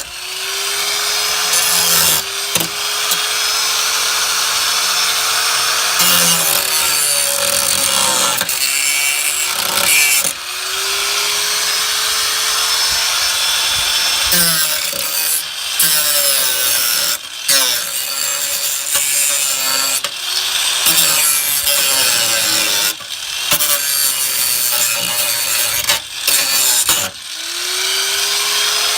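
Angle grinder with a sanding disc grinding down the sheet-metal floor pan where the seat mounts were cut out, flattening the jagged edges. The motor spins up with a rising whine at the start, again about ten seconds in and near the end, with short breaks as the disc comes off the metal.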